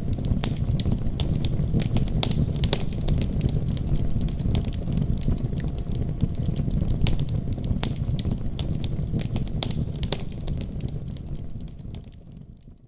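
A fire burning in a fireplace: many sharp crackles and pops over a low, steady rumble of flames. The sound fades out near the end.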